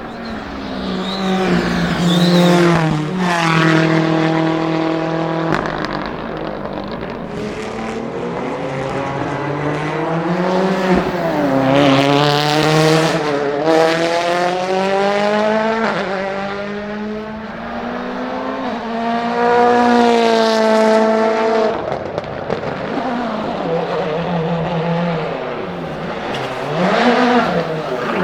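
Turbocharged World Rally Car engines revving hard as the cars pass one after another, the pitch climbing through each gear and dropping at every upshift, the sound swelling and fading with each car.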